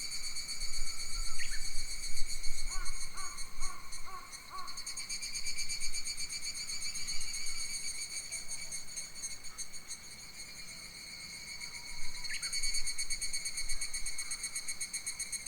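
Forest ambience of a steady, rapidly pulsing, high-pitched insect chorus, with birds calling over it: a sharp call about a second and a half in, a short run of repeated notes around three to four seconds, and another sharp call about twelve seconds in.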